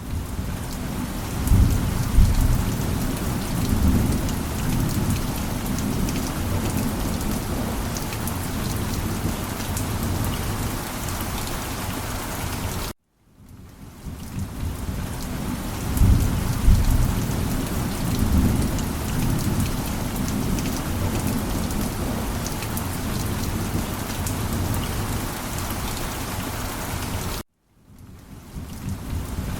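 Steady heavy rain with deep rolling thunder rumbles about two seconds in and again about sixteen seconds in. The audio drops out suddenly twice, about thirteen seconds in and near the end, and fades back up each time: a looped rain-and-thunder ambience track.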